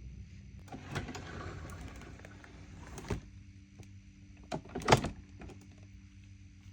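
Rustling for about two seconds, then a few sharp knocks, the loudest just before five seconds in, as small items are handled and set down on a table.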